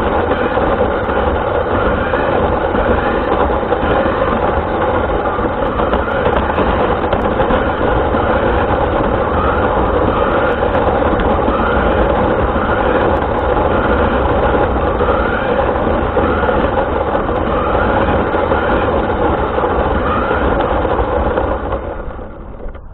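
RC car running, heard through its onboard camera's microphone: a loud, steady rumble of motor and wheels, with a faint short rising whine repeating about once a second. The noise drops away sharply near the end.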